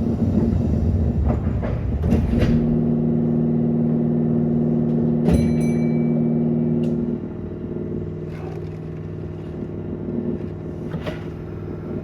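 Kintetsu 9200 series electric train pulling away from a station: a steady hum with several held tones, dropping to a quieter level about seven seconds in, with a few sharp clicks.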